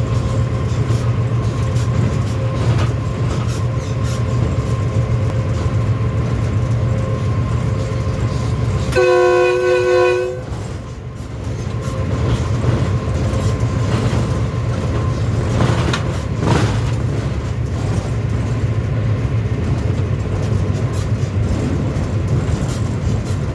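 Passenger express train running through a station without stopping, a steady heavy rumble of wheels on rails, with one locomotive horn blast about nine seconds in.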